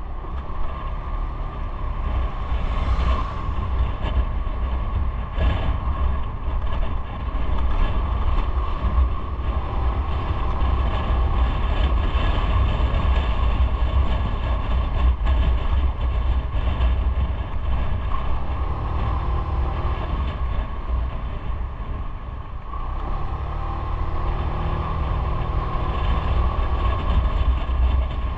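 Motorcycle engine running while riding, mixed with wind and road noise, as a steady low rumble. It eases off briefly a few seconds before the end, then picks back up.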